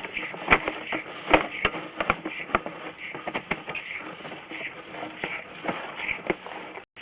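Sewer scope push cable and camera head being fed through a sewer lateral: irregular sharp clicks and knocks over a steady hiss, most frequent in the first two or three seconds.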